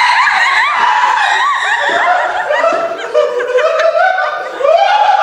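A person laughing hysterically in quick, high-pitched bursts, mixed with screaming.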